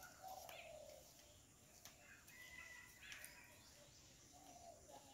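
Faint birds calling: a few short chirps and calls scattered through an otherwise quiet outdoor background.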